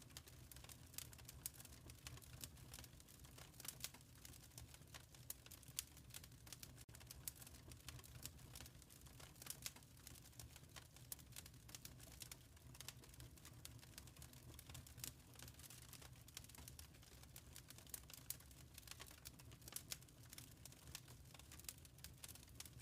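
Fireplace fire crackling faintly: irregular small pops and snaps, several a second, over a low steady rumble.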